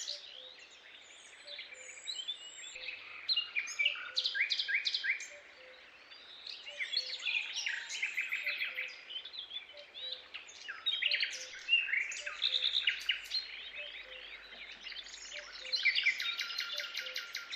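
Many birds chirping and calling together, with fast trills and short whistled notes overlapping in clusters. A faint low note repeats about once a second underneath.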